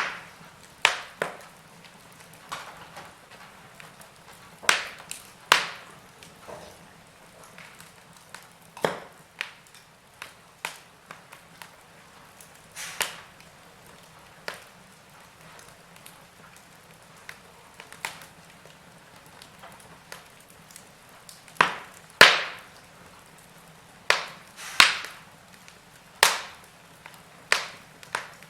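Wood fire crackling: burning logs give off irregular, sharp pops and snaps, spaced from under a second to a few seconds apart, over a faint steady hiss. The loudest snaps come about three-quarters of the way through.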